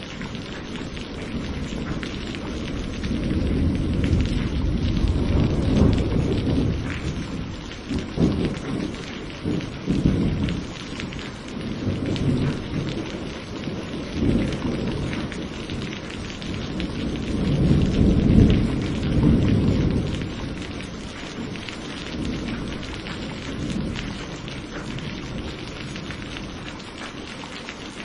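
Steady rain hissing, with rolling thunder: a low rumble builds over the first few seconds, rolls and cracks through the middle, swells again a little past halfway, then fades under the rain.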